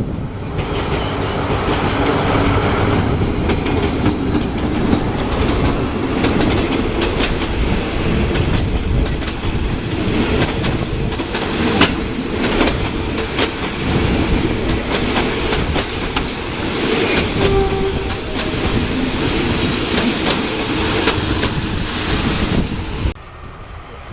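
A train running on the track, its wheels clicking and clattering irregularly over the rail joints, over a steady rolling rumble. The sound drops away suddenly about a second before the end.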